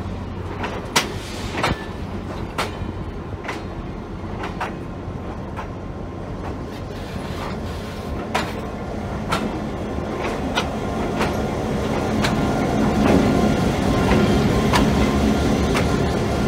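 Passenger cars of a train rolling past, their wheels clicking over rail joints about once a second over a steady rumble. Toward the end the trailing diesel locomotive draws near, and its engine drone grows louder.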